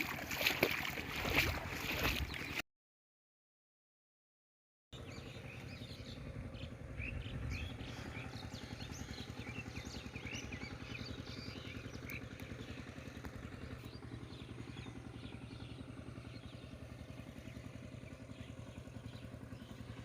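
A steady, low engine hum with a fast even pulse, and faint bird chirps above it. About two and a half seconds in, the sound drops out to dead silence for about two seconds, then the hum resumes.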